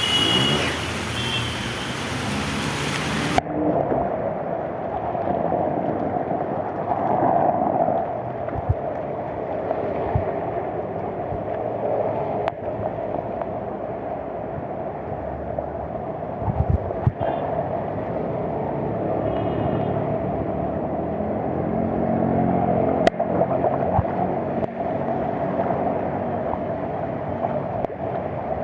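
Steady rushing of heavy rain and floodwater running through a street like a river. After the first few seconds it turns muffled, losing its top end.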